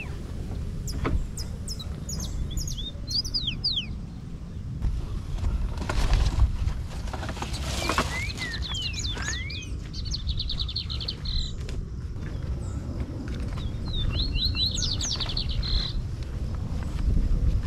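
Songbirds chirping outdoors: repeated quick falling whistles and two fast trills in the second half, over a steady low rumble.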